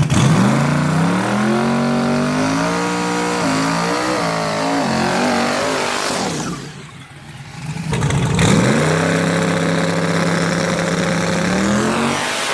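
Drag-racing truck's V8 engine running hard under acceleration: its pitch climbs and holds, then fades about six to seven seconds in. Engine noise surges back about eight seconds in and holds steady.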